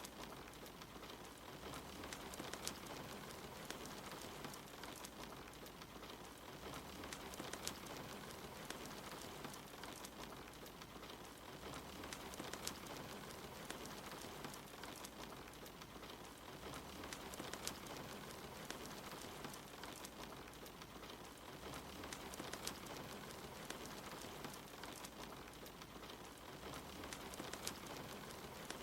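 Steady soft rain mixed with a crackling wood fire in a fireplace, sharp pops and snaps scattered through the even hiss.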